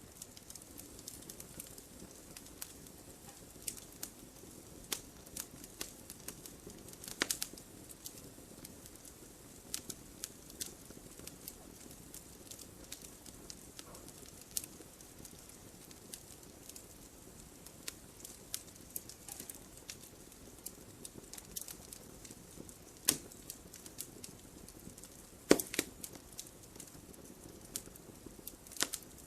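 Wood fire burning, with irregular crackles and pops over a low steady hiss; a few sharper snaps stand out, the loudest about three-quarters of the way through.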